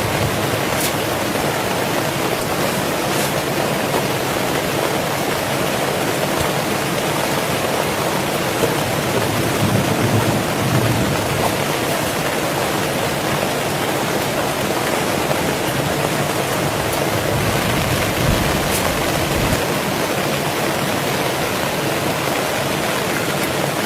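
Heavy rain falling steadily, a dense even hiss. A low rumble swells briefly about ten seconds in and again around eighteen seconds.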